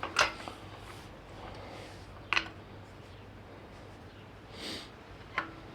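Three sharp metal clanks a couple of seconds apart, each leaving a short ring, with a soft breath or sniff shortly before the last one.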